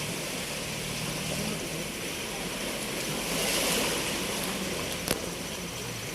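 Sea waves washing onto a beach, a steady surf that swells briefly about three seconds in. A single sharp click comes near the end.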